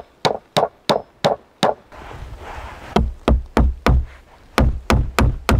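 Rapid, evenly spaced knocks, about three a second, broken by a short pause about two seconds in. From about three seconds on, each knock carries a deeper thud.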